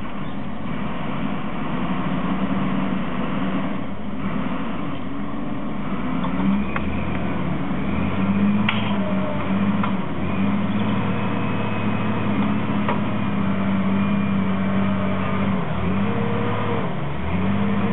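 Heavy diesel engine of earth-moving machinery working under load to pull out a large tree stump, its note rising and dropping several times as it is revved. A few sharp clicks or knocks come through along the way.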